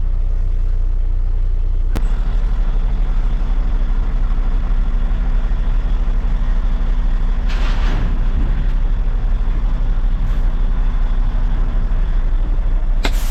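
Heavy truck's diesel engine running steadily, with a sharp click about two seconds in and short air hisses from the air brake system about halfway through and again near the end.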